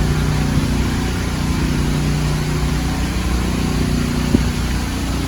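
Motorhome engine running steadily at low speed with a constant low hum. A single short click about four seconds in.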